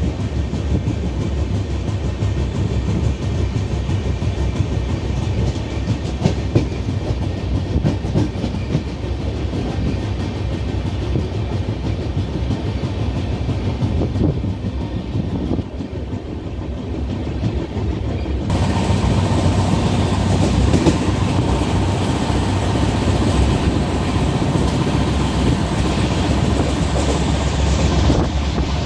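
Passenger train running along the line, heard from on board: a steady rumble of wheels on rails with the clatter of the track. About two-thirds of the way through it suddenly turns louder and brighter.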